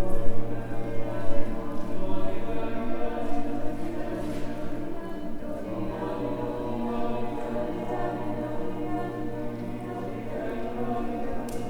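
A group of voices singing long held notes together in harmony, the chord shifting slowly, over a steady low hum.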